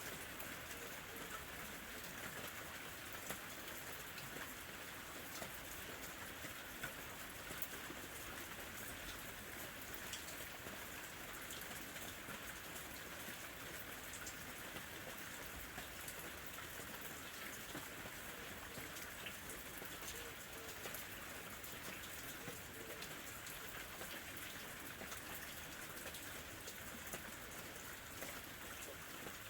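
Steady, gentle summer rain falling, a continuous even hiss with scattered small drop ticks.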